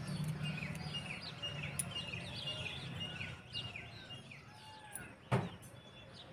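Small birds chirping again and again, short quick high notes, over a faint low hum that fades after about three seconds. A single sharp click about five seconds in.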